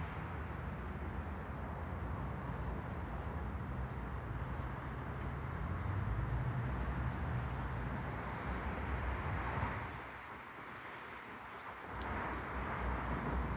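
Long Island Rail Road train running on continuous welded rail: a steady rolling rumble without the rhythmic clickety-clack of rail joints. It dips briefly about ten seconds in, then comes back up.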